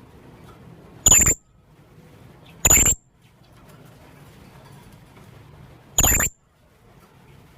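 Young blue-crowned hanging parrot calling: three short, sharp, high-pitched calls, the first two close together and the third a few seconds later.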